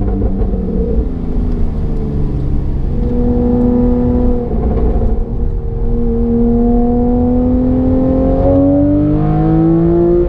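Porsche 991 Carrera GTS flat-six engine through a Fabspeed valved exhaust, under way and changing pace with the throttle. The pitch drops near the start and again about four to five seconds in, then rises slowly and climbs faster toward the end as the car accelerates.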